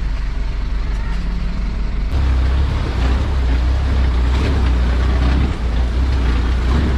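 Off-road 4x4 vehicle running along a track: a steady low engine and drivetrain rumble that gets louder about two seconds in.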